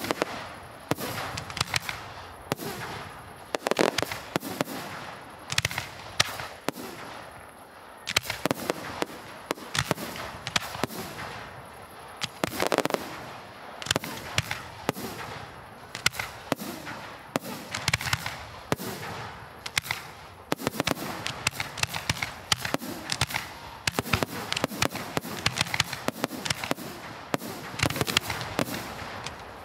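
Aerial firework shells bursting in rapid succession: a dense run of sharp bangs, several a second, some louder than others.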